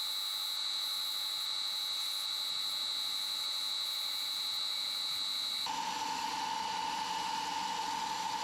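Wood lathe running with abrasive paper hissing against a small spinning workpiece during sanding. A steady high whine over the hiss drops abruptly to a lower steady whine about two thirds of the way through.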